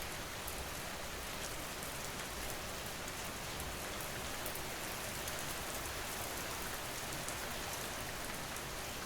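Steady rain falling: an even hiss of rainfall with scattered small drop ticks.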